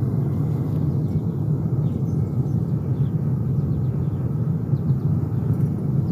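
Gas-fired metal-melting furnace burner running with a steady low rumble, on its first firing. Its air mixture is set on the burner's slide, and the owner judges that it sounds right.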